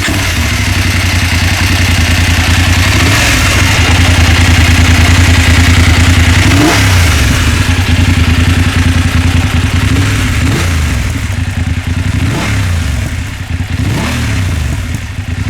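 BMW F 850 GS's parallel-twin engine running through an Akrapovic exhaust, idling with a steady, even beat. Four short throttle blips each rise and fall in pitch: one about seven seconds in, then three more a couple of seconds apart near the end.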